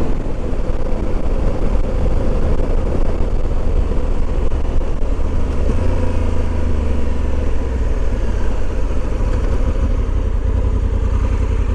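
Honda Africa Twin motorcycle running steadily at road speed, its engine rumble mixed with wind rushing over the helmet-mounted microphone.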